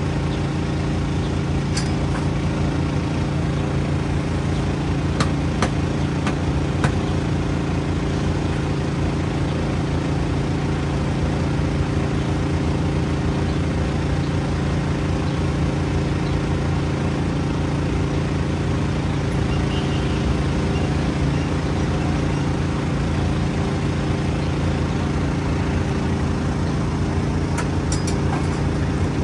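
A motor vehicle engine idling with a steady, unchanging hum, and a few faint clicks.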